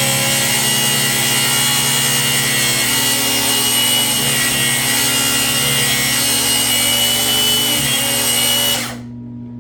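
Electric power tool running steadily at speed with a high whine while breaking down a black walnut slab. It stops abruptly near the end.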